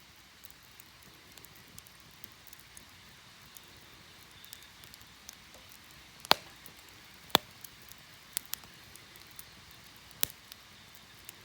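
Campfire crackling: a soft steady hiss with frequent small snaps, and three loud sharp pops about six, seven and ten seconds in as the burning wood splits.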